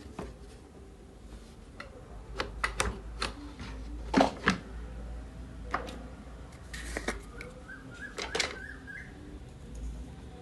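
Scattered sharp clicks and light knocks of handling parts, loudest about four seconds in and again in a cluster near the end.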